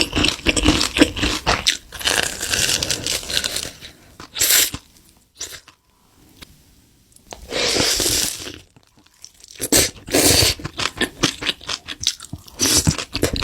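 Close-miked crunchy eating: crisp food bitten and chewed in runs of quick crunches, with a quieter pause of a couple of seconds in the middle.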